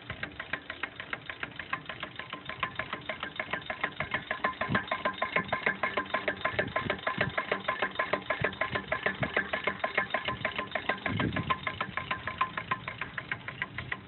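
Small antique rotary valve steam engine, fed from a homemade boiler, running at a steady speed with a rapid, even beat of several strokes a second. A few deeper thumps come in now and then.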